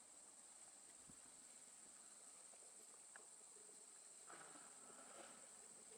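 Faint, steady, high-pitched drone of a forest insect chorus.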